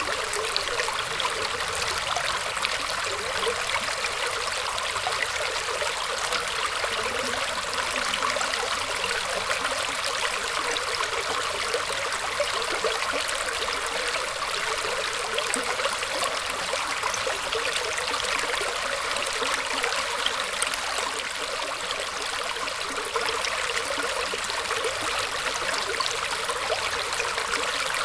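Small stream of water running and trickling over tree roots, steady and even, with little low rumble.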